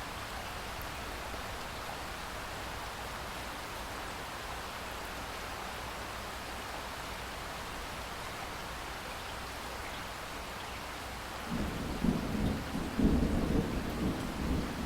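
Steady rain falling, then a low rumble of thunder rising in near the end and growing louder.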